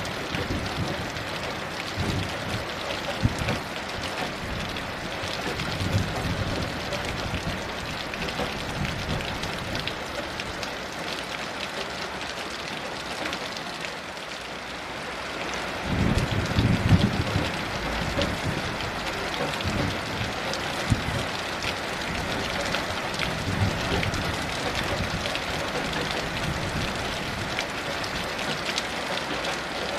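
Heavy rain falling steadily with a patter of drops. Low rumbles of distant thunder roll in, the strongest a little past halfway.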